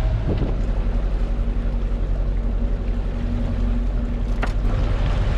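A boat under way: a steady low drone with the rush of water and wind, and one sharp click about four and a half seconds in.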